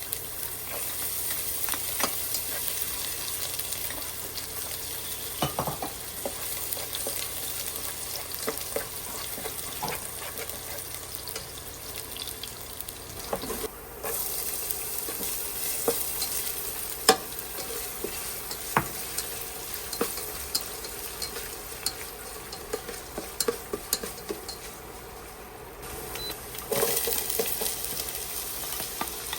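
Food sizzling in a hot pan while it is stirred, with scattered clicks and scrapes of the utensil against the pan. The sizzle briefly drops away twice.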